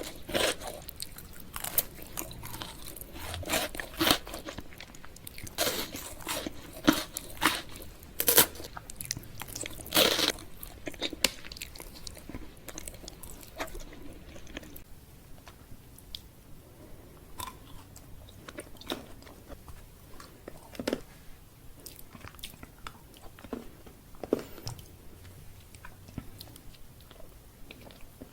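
Close-up biting and chewing of chocolate candy: repeated sharp crunches, dense and loud at first, thinning out to softer, occasional crunches in the second half.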